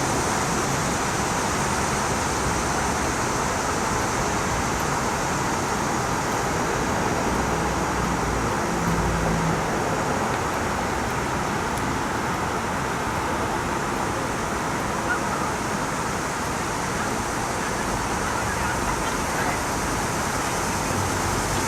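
Heavy rain falling as a steady, even downpour in a severe thunderstorm, with a brief low rumble about nine seconds in.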